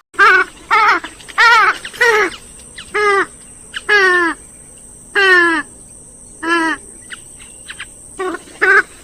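Grey-headed swamphen giving a series of about ten short, nasal calls, each with a wavering, falling pitch, at irregular intervals and fainter toward the end.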